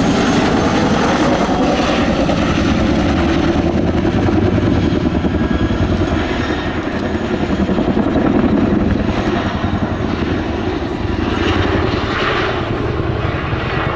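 Boeing Chinook HC6 tandem-rotor helicopter flying close by, its twin rotors beating fast and loud together with its turbine engines. The sound swells to its loudest about two thirds of the way in, then eases off near the end.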